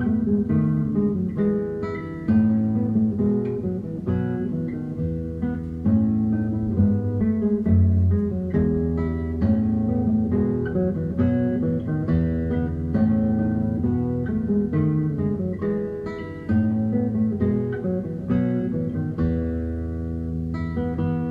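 Background music on acoustic guitar, plucked and strummed notes over a steady bass.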